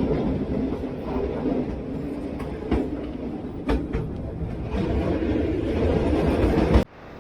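Vintage wooden electric tram running along its track, heard from on board: a steady low rumble and rattle of the car and wheels, with a couple of sharp knocks from the rails. The sound cuts off suddenly near the end.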